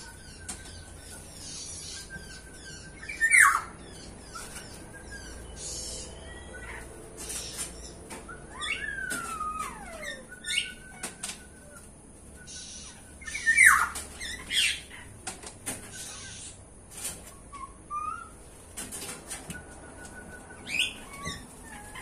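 Aviary birds calling with short level whistles and sharp downward-sweeping calls, the two loudest about three and fourteen seconds in, along with wing flapping as a bird flies to the feeding stick.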